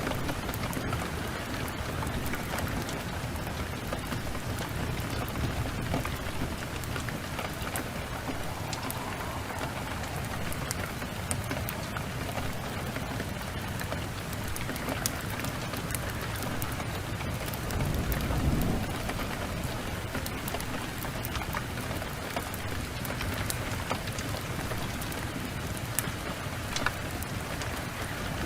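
Steady rain with scattered sharp crackles of a wood fire in a fireplace, and a brief low rumble about two-thirds of the way through.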